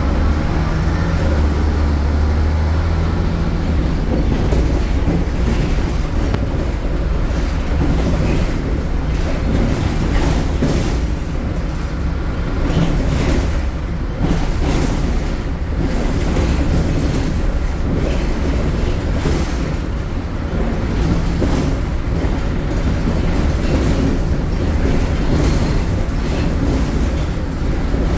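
MAN Lion's City city bus heard from on board, its MAN Euro 4 diesel engine running loud under way with a low drone, over frequent knocks and rattles from the bus body.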